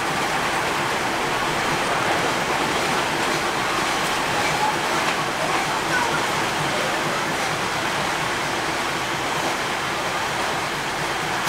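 Diesel railcar commuter train rolling slowly along a platform as it arrives, heard through an open window as a steady rushing noise.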